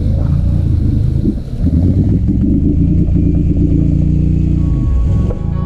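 Truck engine running under load while driving off-road in four-wheel drive, easing off briefly about a second and a half in and again near the end.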